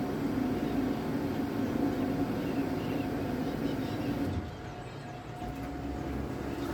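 Electric boat motor running with a steady hum over water and hull noise. The hum drops out briefly about four seconds in, then comes back.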